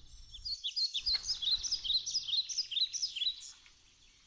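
A small songbird singing a quick series of short, high, falling chirps for about three seconds.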